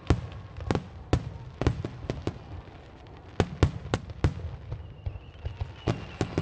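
Fireworks display: aerial shells bursting in an irregular series of sharp bangs over a steady low rumble, with a lull of about a second in the middle.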